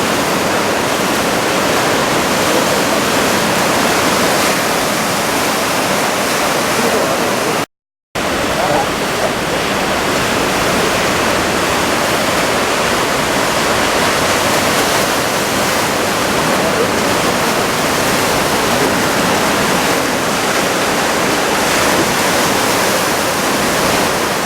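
Big surf breaking under typhoon winds, a loud steady wash of noise. It cuts out for a moment about eight seconds in.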